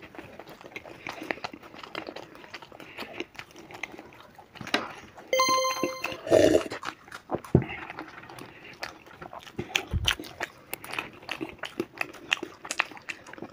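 Close-miked chewing, lip smacking and wet mouth clicks of two people eating fried stuffed paneer pasanda. A short ringing tone sounds about five seconds in, followed by a louder low gulp-like sound.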